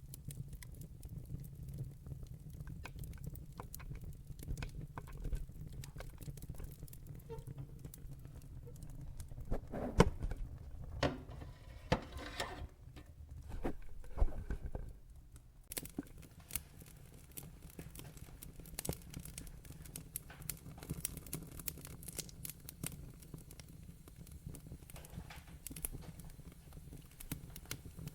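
Burning logs in a fireplace crackling, sharp pops scattered over a low steady rumble. About ten seconds in, a denser run of louder pops and crackling comes, dying back down after about fifteen seconds.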